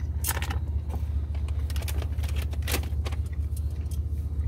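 Steady low rumble of the Jeep's engine idling, with a few light clicks from metal tongs handling the meat, the sharpest near the start and about halfway through.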